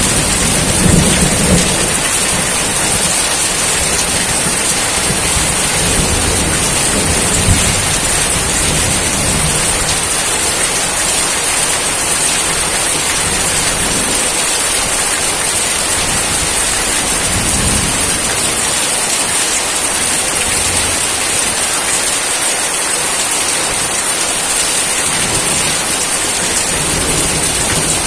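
Steady, loud rain, an even hiss, with low rumbling that swells in the first several seconds and again briefly around the middle.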